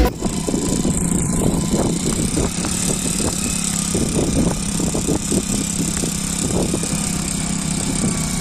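An old motorcycle engine running steadily under load as it tows an auto rickshaw up a bank.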